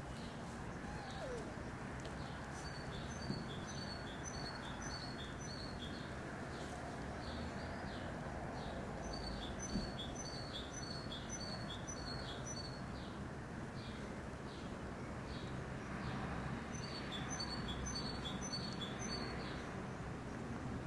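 A songbird singing: three bouts of quick, high repeated chirps, each lasting about three seconds, several seconds apart, over a steady background hiss.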